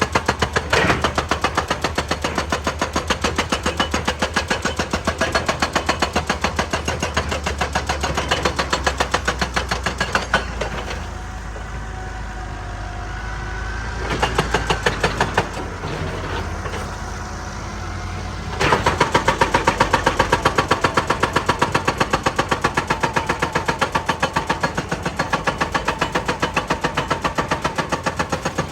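Excavator-mounted hydraulic rock breaker hammering in a fast, even train of blows. It stops about a third of the way in, leaving the excavator's engine running with a faint whine and a brief burst of blows, then starts hammering again and keeps on.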